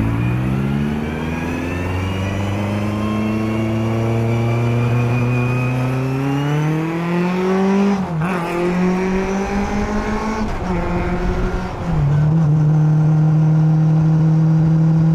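1966 Lotus Elan 26R's twin-cam four-cylinder engine under way, its pitch climbing steadily as the car accelerates for several seconds. It dips briefly a couple of times, then settles into one steady note near the end.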